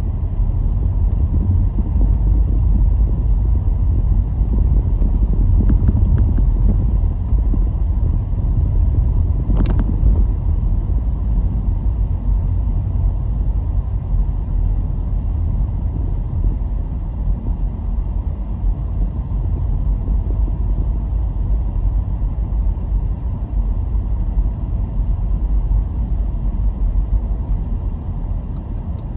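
Car driving along a road: a steady low rumble of tyres and engine, swelling and easing a little, with one sharp click about ten seconds in.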